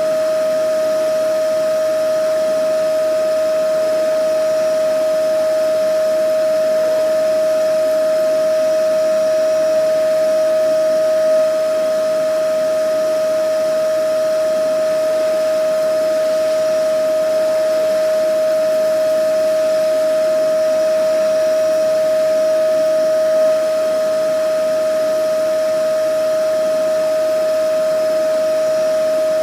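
Vacuum cleaner motor running steadily: a constant whine of unchanging pitch over an even rush of air.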